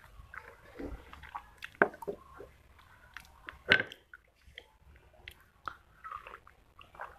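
Close mouth sounds of biting and chewing hard, crumbly clay, with sharp crunches about two seconds in and again near four seconds.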